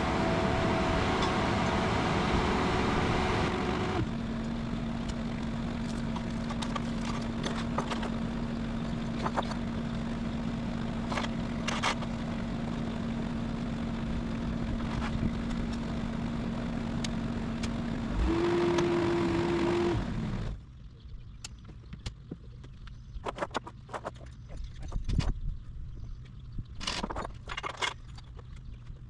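Bobcat 773 skid-steer's diesel engine running at high throttle, dropping to a steady lower speed about four seconds in, revving up briefly near the end of its run, then shut off abruptly. Scattered light clicks and knocks follow.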